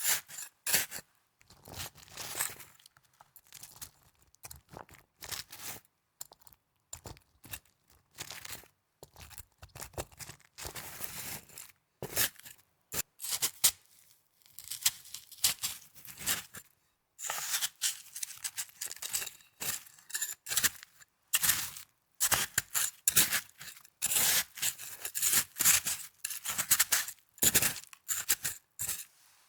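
Snow being crunched and scraped close to the microphone in short, irregular bursts with brief pauses between them.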